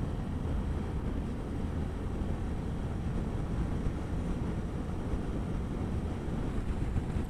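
Steady wind rush on the microphone over the even drone of a motorcycle cruising at highway speed.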